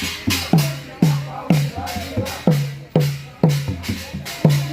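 Drum beaten in a steady rhythm of about two strokes a second, each stroke sliding quickly down in pitch, with bright metallic clashes that keep the beat with it.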